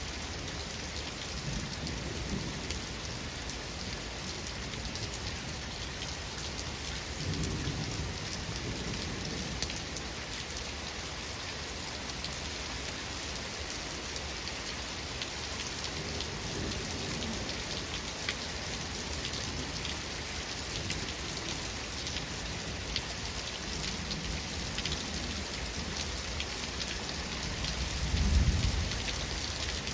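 Steady rain falling, with several low rolls of thunder; the loudest rumble comes near the end.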